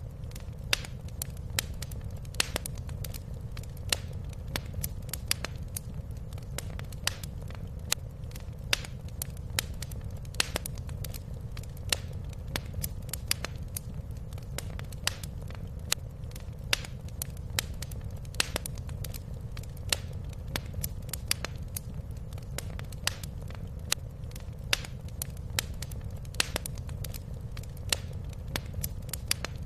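Wood fire crackling in a fireplace: frequent irregular sharp pops and snaps, several a second, over a steady low rumble of the flames.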